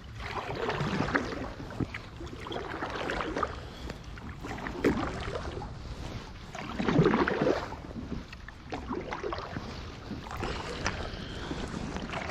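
Water swishing and splashing around a kayak, in repeated swells about every two seconds.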